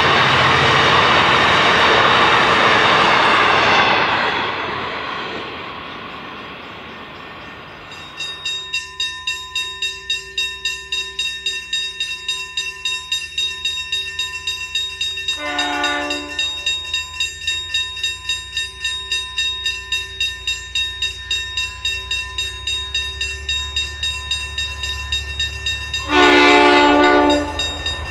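Passenger carriages rolling past on the rails, their noise fading away over the first few seconds. Then an approaching V/Line N class diesel-electric locomotive sounds its horn twice: a short blast about halfway through and a longer, louder one near the end. A steady ringing pulse of about two strokes a second runs underneath.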